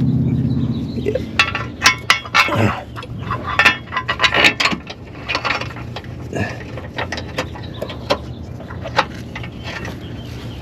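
Metal bolts and hand tools clinking and tapping as bolts are handled and threaded in by hand. There is a quick run of sharp clicks in the first half, then scattered ones. A steady low hum fades out about a second in.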